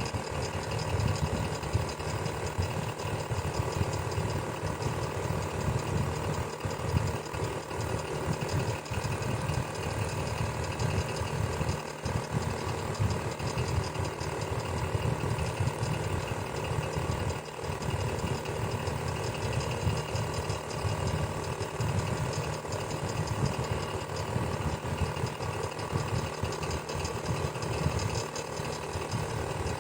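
Electric fan running steadily, a low whir with a fast flutter and a faint hum.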